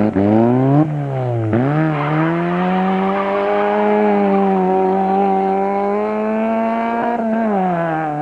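Hillclimb race car engine accelerating hard: its pitch climbs, drops sharply about a second in and again shortly after at upshifts, then climbs and holds high before falling away near the end.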